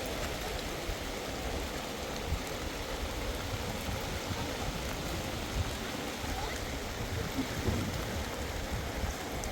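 Heavy rain pouring steadily, an even, dense hiss of rain on the ground.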